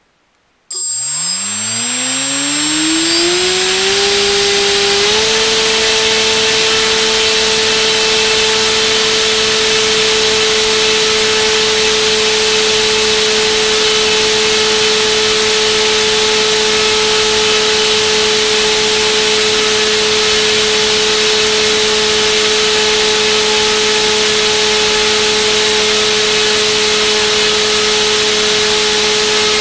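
Turnigy D2826/10 1400kV brushless motor spinning a propeller on a thrust test. It starts from standstill about a second in, rises in pitch in two steps over the next few seconds, then runs steadily at one constant pitch.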